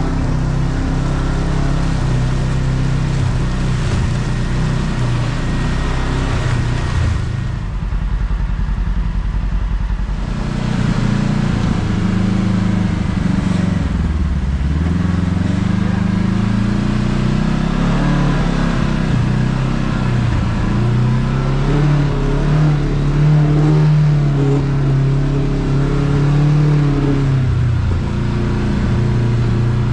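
Kawasaki KRX side-by-side's parallel-twin engine running under varying throttle on a trail, its note rising and falling. About eight seconds in it eases off to a low note for a couple of seconds, then picks up again.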